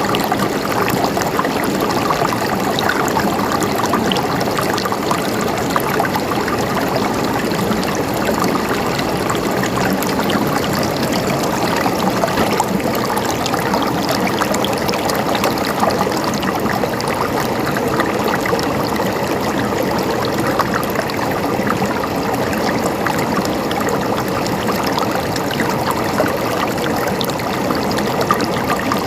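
Water running steadily over rocks in a stream, a constant gurgling, trickling rush.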